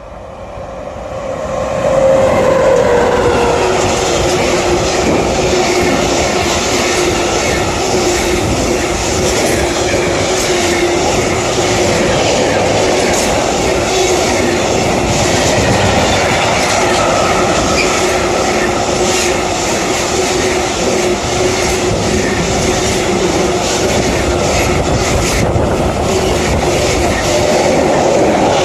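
A train passes close by. It grows loud over the first two seconds, then holds a steady rumble with repeated clicks of the wheels over the rails and a steady whine that dips in pitch near the start.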